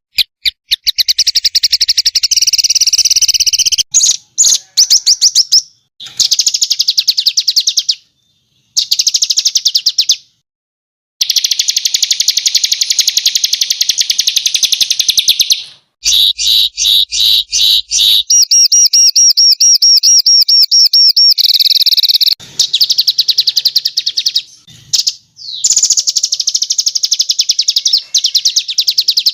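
Small songbirds singing loud, fast runs of repeated notes and rough chattering trills, high-pitched. The passages are spliced together, with abrupt cuts and a few brief dead silences between them.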